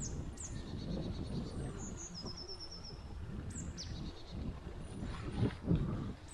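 Woodland birds calling: several short chirps that sweep down in pitch and one quick high trill of about eight notes. Underneath is a steady low rumble, with two louder thumps about five and a half seconds in.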